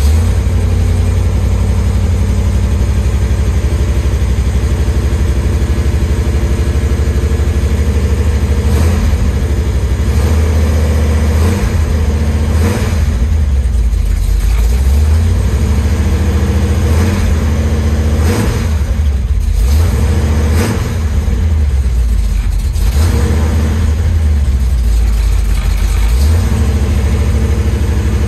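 1973 Chevy Nova's engine, running on a Street Demon 750 four-barrel carburetor, runs cold and unevenly shortly after a start, with a few brief revs every few seconds.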